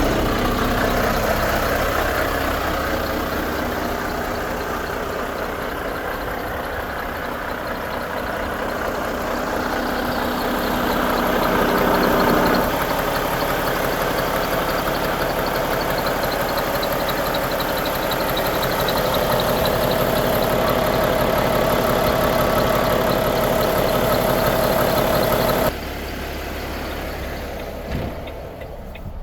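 Volvo FH 500 truck's 13-litre six-cylinder diesel idling steadily. Its sound changes character about twelve seconds in and drops sharply a few seconds before the end.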